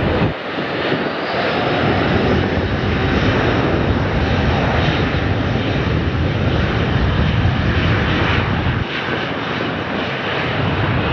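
Airbus A330-941N's twin Rolls-Royce Trent 7000 turbofans at high power during takeoff, a loud steady jet roar.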